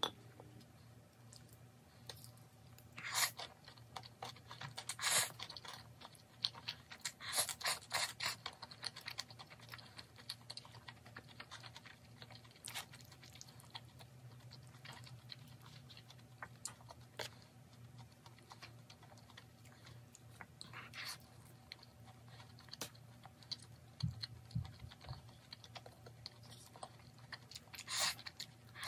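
Close-up eating sounds of chewy spicy jjolmyeon noodles and pork belly: a scatter of sharp wet clicks and smacks from chewing, busiest in the first ten seconds and sparser after.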